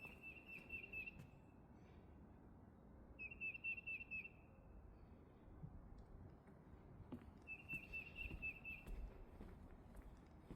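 A songbird singing a short, fast run of repeated whistled notes, three times, a few seconds apart.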